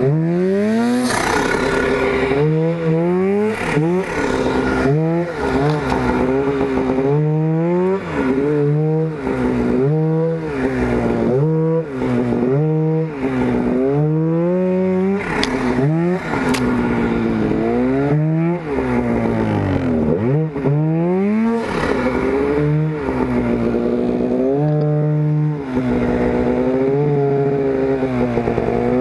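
Turbocharged Polaris Pro RMK snowmobile's two-stroke engine revving up and down over and over, its pitch climbing and falling about once a second with short steady stretches, as the throttle is worked.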